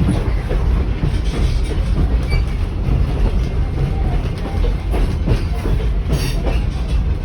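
Rolling noise of a moving heritage passenger train heard from inside an Evans carriage from the early 1920s: a steady low rumble with an irregular clatter of wheels over the rail joints.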